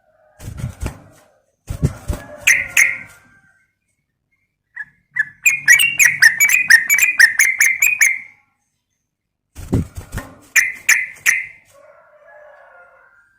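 Yellow-vented bulbul (trucukan) calling. Short chirps come first, then a quick run of about a dozen bubbly notes lasting about three seconds, then more chirps. Low thumps come at the start, about two seconds in, and again about ten seconds in.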